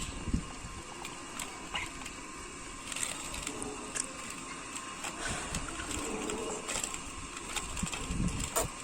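Ducks dabbling, their bills making rapid, irregular clicking and pattering.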